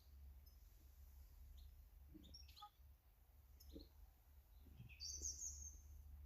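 Faint, scattered short chirps of small garden birds, with one stronger high call lasting about a second some five seconds in, over a steady low hum.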